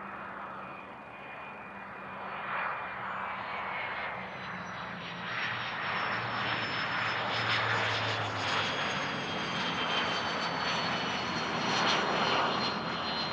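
Business jet's turbofan engines passing close by, growing louder, with high whines that slowly fall in pitch.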